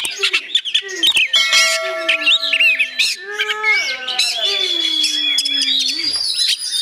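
A caged oriental magpie-robin (kacer) singing continuously in full voice: a rapid, varied run of whistles and chirps. Through the middle of the song comes a lower, drawn-out tone that slides slowly downward.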